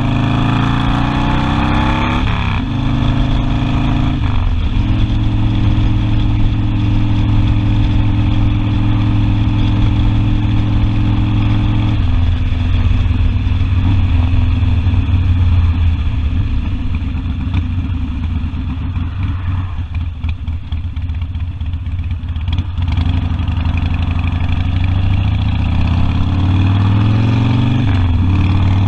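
Harley-Davidson Sportster V-twin motorcycle engine under way. It revs up through the gears near the start, cruises at a steady pitch, eases off and quietens for a few seconds past the middle, then revs up again near the end.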